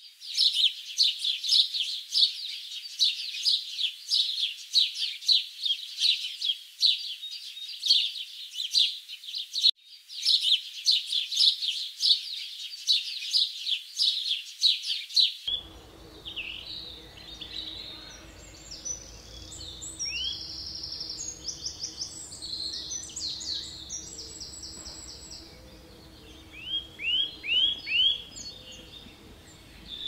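Birds calling: dense, rapid high-pitched chirping for about the first half. About halfway through it changes to a quieter mix of different whistles and trills over a faint steady hum, with a quick run of four falling notes near the end.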